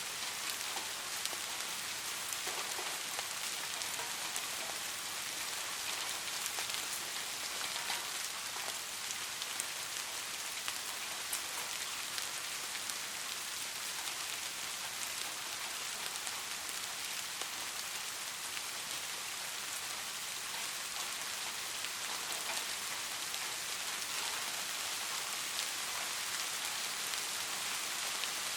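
Steady rain falling, a dense even hiss of raindrops with many small separate drop ticks.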